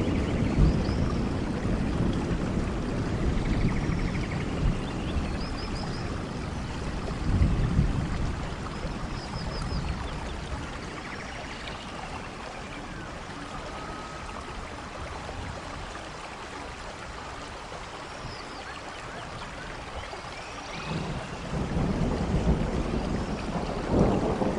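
Wind buffeting the microphone as a low, gusting rumble that eases off around the middle and picks up again near the end, with faint short high chirps above it.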